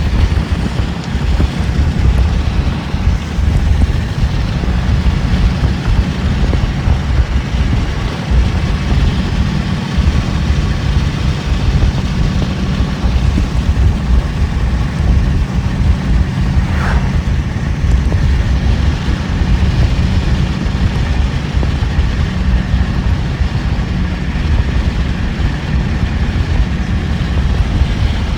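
Wind buffeting the microphone in a storm, a loud, steady low rumble with no break. A faint, brief falling tone sounds about halfway through.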